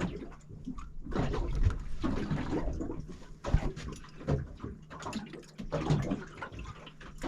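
Water lapping and sloshing against the hull of a small fishing boat in irregular swells, with a sharp knock about three and a half seconds in.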